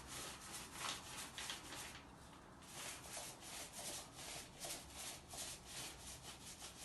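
Paint roller loaded with thick paint rolling over a plastered wall: a rasping rub in quick repeated strokes, with a short pause about two seconds in.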